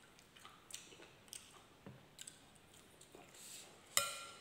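Close mouth noises of a man chewing a mouthful of rice: faint wet smacks and small clicks. About four seconds in comes one short, louder mouth sound.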